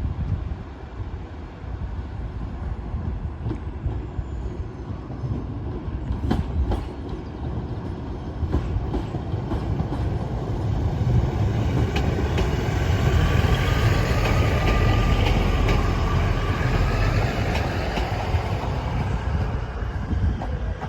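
A train running through the station: heavy rumble with wheel clicks over the rail joints, building to its loudest in the middle and easing toward the end, with a faint whine at its peak.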